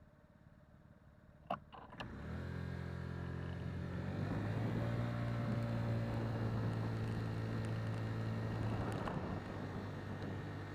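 A vehicle engine starting: a couple of clicks, then the engine catches and runs steadily, getting a little louder about four seconds in.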